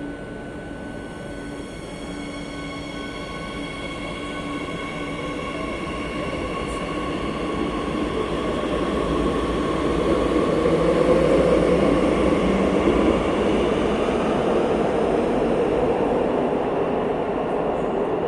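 Madrid Metro Line 8 train in motion: its running noise grows louder over about the first ten seconds, then holds steady, with a steady high whine over the rumble.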